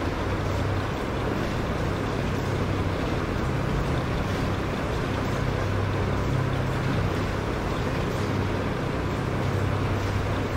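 Steady mechanical rumble with a low hum under a rushing hiss, a cartoon machinery sound effect that runs unchanged throughout.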